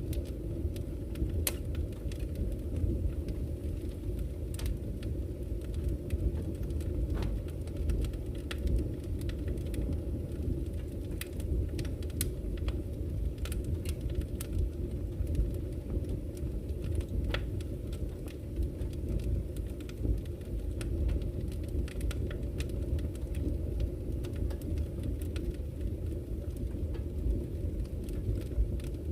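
Campfire crackling with scattered sharp pops and snaps, over the steady low rush of a flowing river.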